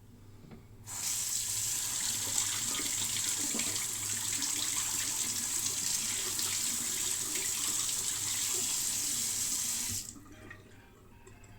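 Water running from a tap into a sink in a steady hiss. It is turned on about a second in and shut off about ten seconds in.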